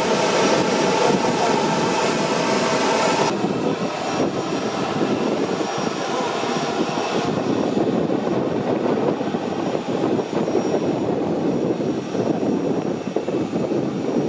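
Jet airliner engine noise, steady and loud. The high hiss drops away abruptly about three seconds in, leaving a lower, duller engine noise.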